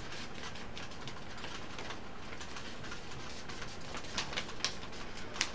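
A sheet of paper being handled and folded: soft rustling and small clicks, with a few sharper crackles of the paper being creased near the end.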